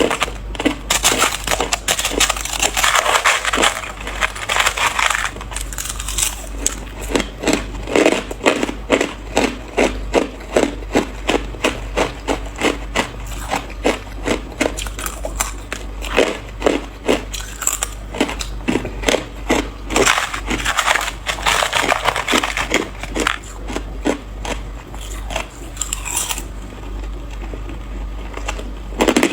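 A person biting and chewing ice close to the microphone: loud, crisp crunches, densest around the start and again about twenty seconds in, with a steadier run of chewing crunches, about two a second, in between.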